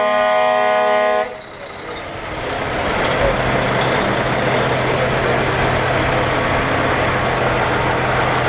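Truck air horn blasting, cutting off suddenly about a second in. Then a heavy truck engine running steadily with a low drone as it passes.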